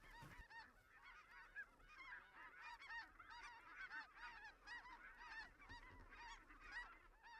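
Flock of snow geese calling faintly: many short, overlapping high honks.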